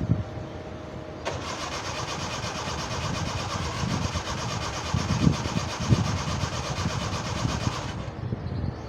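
Suzuki Mehran's starter motor cranking the engine in a cold start on a low battery, beginning suddenly about a second in and grinding on steadily for six or seven seconds before it stops near the end without the engine clearly catching.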